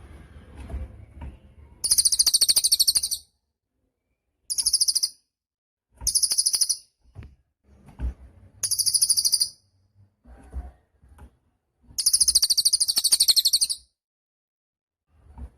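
A cililin songbird singing very high-pitched, rapid trilled phrases. There are five bursts of about one to two seconds each, spaced a second or two apart.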